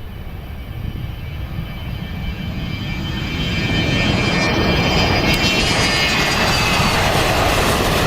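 Aircraft engine of a plane struggling to climb after takeoff, growing louder over about four seconds, then loud and steady as it passes low. Several steady high whining tones run through the rushing engine noise.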